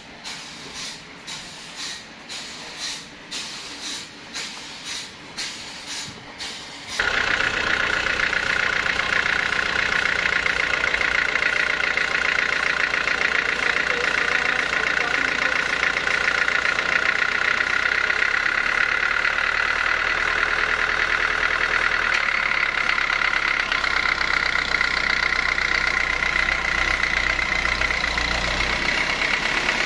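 Faint rhythmic knocking about twice a second. About seven seconds in, a loud, steady machine sound cuts in abruptly and runs on: a low engine rumble under a high whine.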